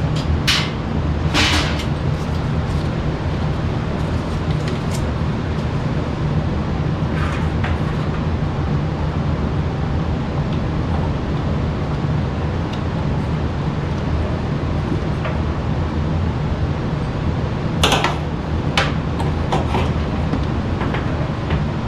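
A steady low mechanical hum with a few sharp knocks and clanks of metal parts being handled during furnace repair work: a few in the first two seconds, one about seven seconds in, and a louder pair near eighteen seconds.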